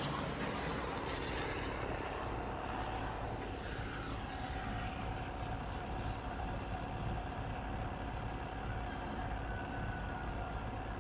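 Petrol car engine with Bosch KE-Jetronic mechanical fuel injection, settling down from a rev in the first couple of seconds and then idling steadily.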